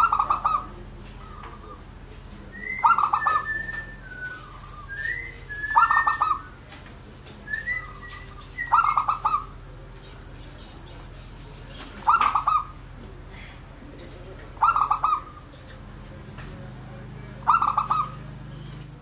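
Zebra dove (perkutut) cooing: a short, rapidly pulsed coo phrase repeated about every three seconds, seven times. Thinner, higher whistled notes come in between the coos in the first half.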